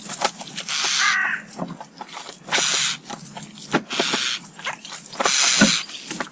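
Common starlings at a garden feeder giving four harsh, screechy calls about a second apart, one with a short warble inside it, over small clicks and taps.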